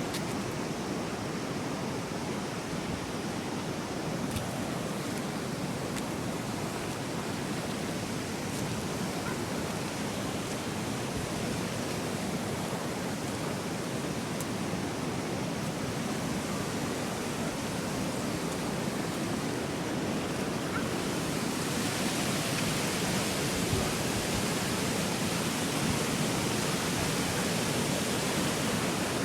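Steady rushing roar of a river swollen and in flood, growing brighter and hissier about two-thirds of the way through.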